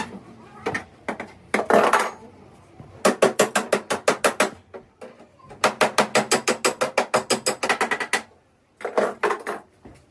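Rapid metallic hammer strikes, two long runs of about eight blows a second with a few single knocks around them, typical of sheet-metal body panel work.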